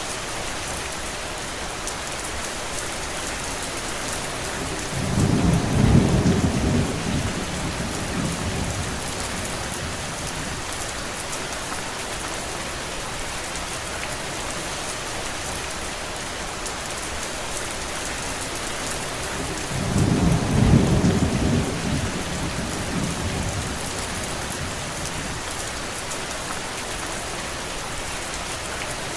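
Steady rain with two low rolls of thunder, the first about five seconds in and the second about twenty seconds in, each lasting a few seconds.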